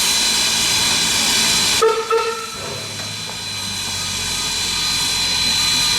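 Steam hissing loudly from QR C17-class steam locomotive 974, with a thin steady high tone over it. The hiss cuts off abruptly about two seconds in, followed by a short tonal blip. Then comes a low steady hum while the hiss gradually builds again.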